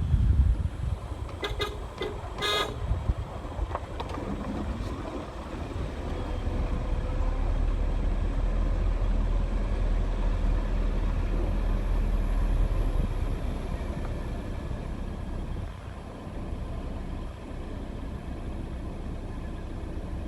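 A motor vehicle running and moving, a steady low rumble that grows louder in the middle, with a few sharp clicks about two seconds in.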